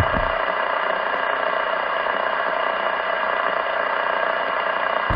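CB radio speaker carrying a keyed-up transmission with no voice on it: a steady rushing, hum-laden noise that cut in sharply and holds at an even level.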